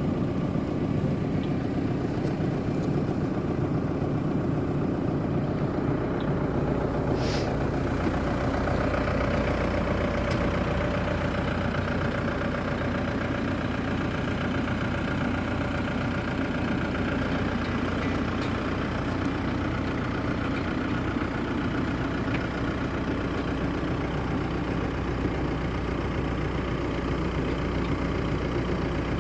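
BCS Volcan K105 compact tractor engine running steadily at an even speed, with one brief high-pitched sound about seven seconds in.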